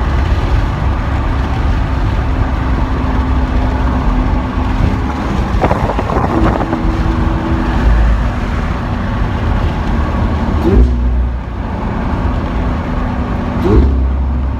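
Lamborghini Aventador SV's V12 engine running while driving, heard from inside the car over a steady low road rumble. The engine note steps up about six seconds in, and swells briefly twice near the end.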